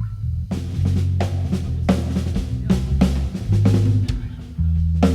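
Live rock band playing: an electric bass riff, with the drum kit coming in about half a second in, kick drum and snare hits over the bass line.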